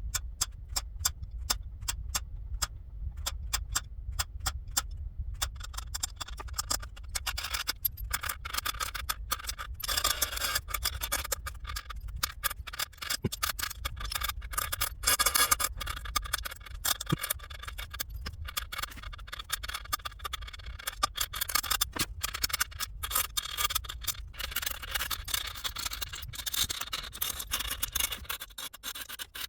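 Handwork on a copper basin: a quick run of sharp clicks and taps, then from about five seconds in, repeated scraping and rubbing strokes with scattered clicks, over a low steady hum.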